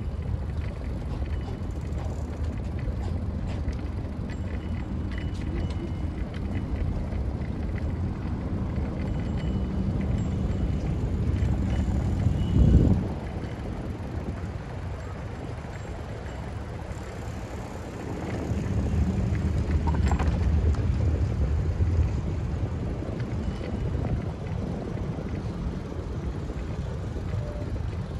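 Wind buffeting a phone's microphone on the move, a steady low rumble with rolling road noise. There is one short loud gust about halfway through, and the rumble grows louder for a few seconds a little later.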